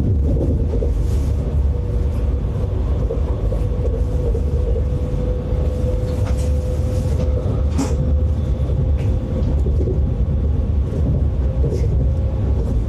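Steady low rumble of a moving vehicle, with a steady whine above it and a single sharp click about eight seconds in.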